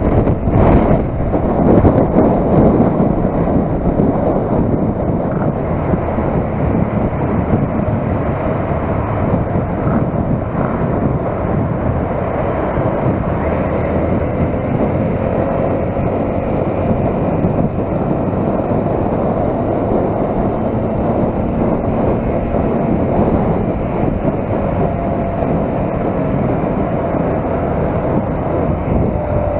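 Motorcycle running at road speed, its engine note under a steady rush of wind on the microphone.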